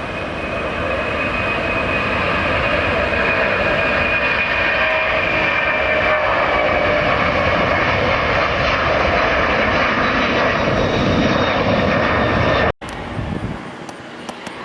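Jet airliner engines, loud and building over the first couple of seconds, with faint whining tones sliding slowly lower as the aircraft passes. The sound cuts off abruptly about thirteen seconds in, leaving a much quieter background.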